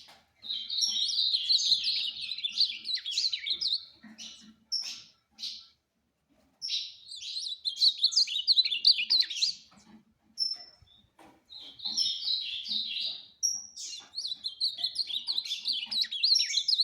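Ultramarine grosbeak (azulão) singing: four long, rapid warbled phrases with short pauses between them, and a few brief single notes in the pauses.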